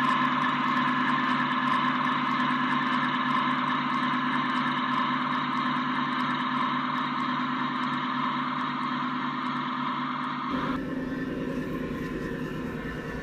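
An LGB G-scale model locomotive running with a steady, engine-like drone. The sound changes abruptly about ten and a half seconds in.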